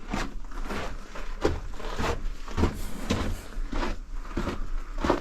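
Footsteps walking on the floor of a sandstone tunnel, an even run of soft thuds about two a second.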